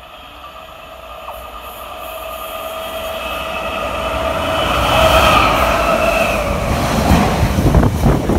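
Container freight train approaching and passing at speed: a steady whine and rumble growing louder as the locomotive nears, then the clattering rattle of the container wagons going by in the last few seconds.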